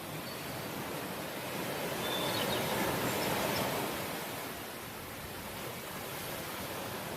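Ocean waves breaking and washing ashore. The surf swells about two seconds in and eases off after about four seconds.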